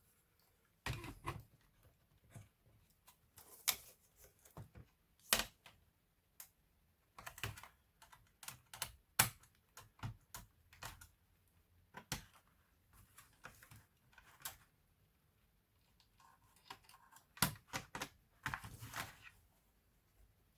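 Irregular light clicks and taps of a laptop being handled and taken apart by hand, plastic parts and small components knocking.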